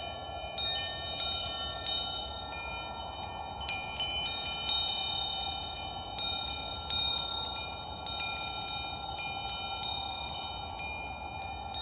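Chimes struck at irregular moments, clear high ringing tones overlapping and dying away slowly, over a steady soft hiss; the loudest strikes come about four and seven seconds in.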